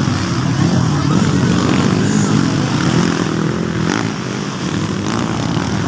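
Motocross motorcycle engines running in a steady drone, easing slightly about four seconds in.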